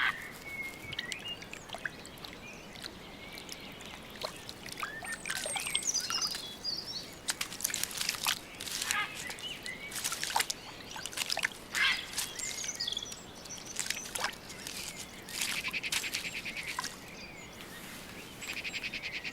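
Several birds singing and calling over a faint steady hiss of river water, with a rapid pulsed trill about fifteen seconds in and again near the end.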